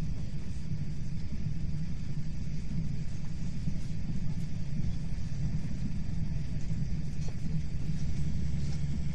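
Hyundai Rotem HRCS2 electric multiple unit running at speed, heard inside the passenger car: a steady low rumble of wheels and running gear on the track.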